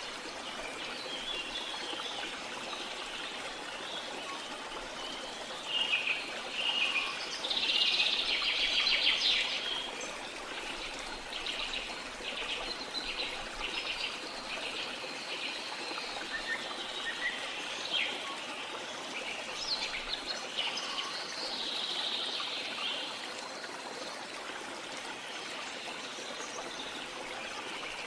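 Birds calling and chirping over the steady rush of running stream water. The calls are loudest about six to ten seconds in, running into a fast rattling trill.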